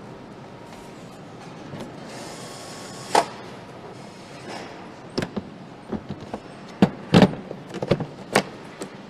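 Factory-floor noise of a motorcycle assembly line: a steady background din with scattered short knocks and clicks, one about three seconds in and a cluster of them through the second half.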